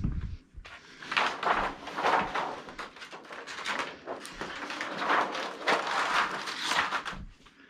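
Rustling and scraping of plastic TV parts being handled and slid back into place. It comes in several uneven swells with no steady tone.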